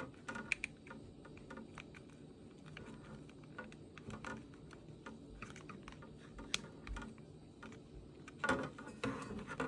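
Scattered faint clicks and light taps of small plastic and metal parts being handled as a ceiling fan's light kit is plugged in and fitted, with a brief louder rustle near the end.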